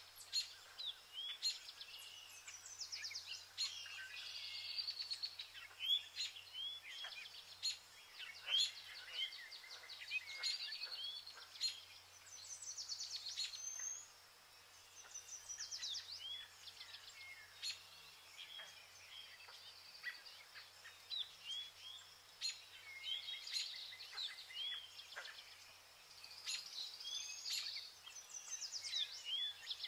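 Small birds singing, with many short whistled chirps and quick trills overlapping throughout.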